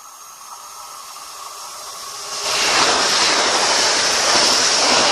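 A passing train approaching along the line: a rising rush that jumps sharply about two and a half seconds in to a loud, steady roar of wheels and air as the train runs past at speed.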